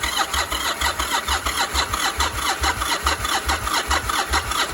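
1999 Yamaha Virago XV1100S V-twin being cranked over by its electric starter on a cold start, turning over in an even rhythmic chug without catching, then stopping abruptly.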